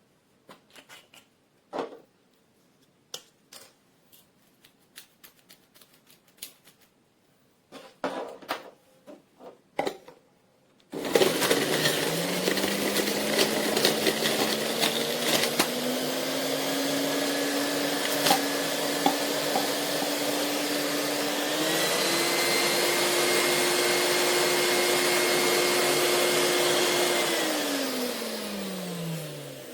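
A few clicks and knocks of plastic parts being handled, then a centrifugal juicer's 400 W electric motor starts abruptly and runs loudly, its pitch climbing in several steps. Near the end its whine falls in pitch and fades as the motor spins down.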